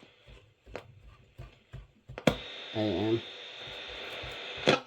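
Vintage Philips 3-band radio cassette recorder switched over to the AM band with a sharp click, after which its speaker gives a steady static hiss with a thin high whistle. Another click comes near the end.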